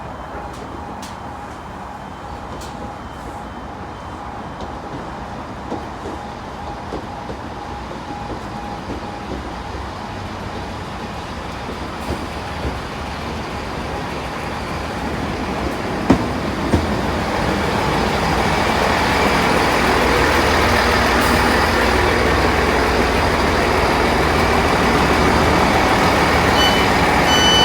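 A train approaching, its running noise growing steadily louder over about twenty seconds, with short intermittent beeps early on and again near the end.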